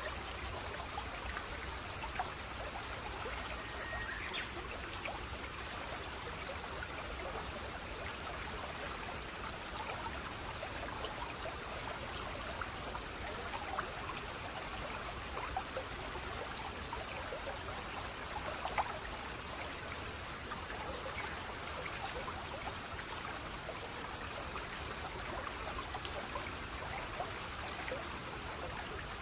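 Water running steadily in a small stream or cascade, trickling and splashing, with scattered small drips and plinks.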